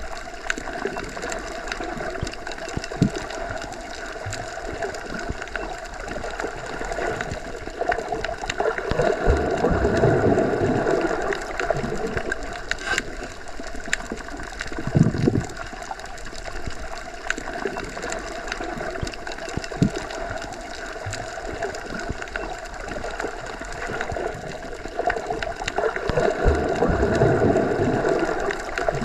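Underwater ambience, as heard when submerged: a continuous wash of water noise with scattered small clicks, swelling louder twice.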